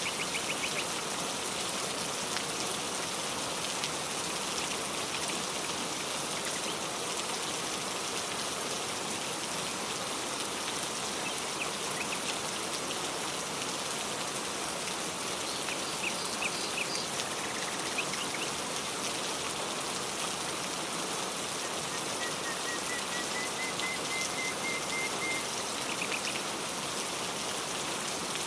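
Steady rain falling, an even hiss of drops. A small bird chirps in short bursts now and then, with one longer trill of quick repeated notes near the end.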